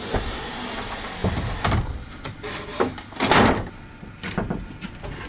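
Wooden knocks and thuds from woodwork on timber, with one louder scrape about three seconds in.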